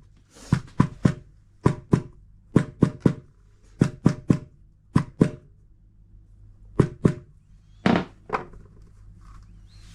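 Sharp knocks in quick groups of two or three, some with a short ringing tone: the new drum oil seal being tapped home into its seat in a washing machine tub.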